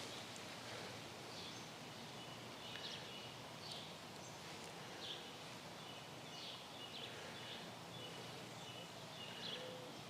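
Quiet outdoor ambience: a steady faint background hiss with short bird chirps repeating every second or so.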